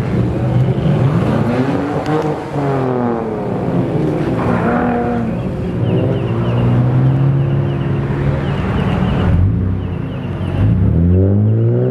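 Car engines revving and accelerating, the pitch climbing and falling several times, with a loud run of revs near the end.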